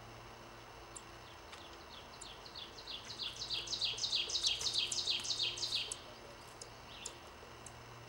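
Dark-eyed junco calling: a rapid run of high, down-slurred chirps, about four or five a second, building louder and then stopping abruptly, with one more chirp near the end.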